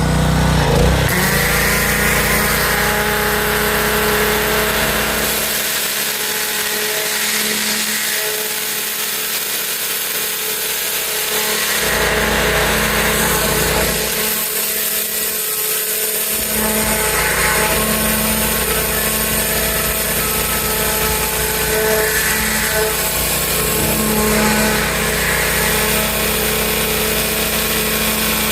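Pressure washer running steadily, its motor drone under the hiss of the water jet spraying a wooden deck railing. The deep rumble drops away twice for a few seconds at a time.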